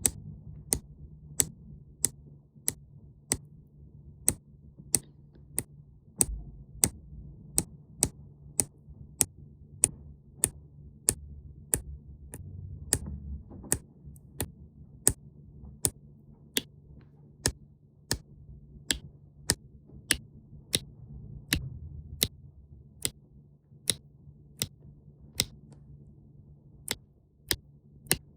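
Sharp, evenly paced clicks, about three every two seconds, over a low steady hum.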